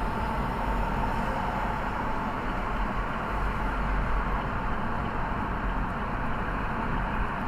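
Steady rumble of a moving vehicle, mostly low road and engine noise.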